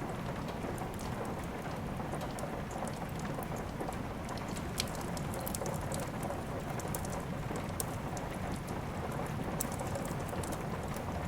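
Steady rain mixed with a crackling wood fire: a constant hiss with frequent small, sharp pops, one louder pop about five seconds in.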